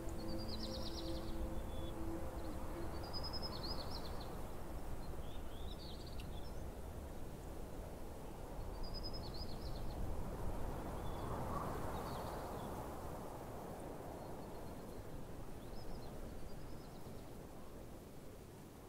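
Small birds giving short chirping calls every two to three seconds over a steady outdoor background hiss. A held music chord fades out in the first couple of seconds.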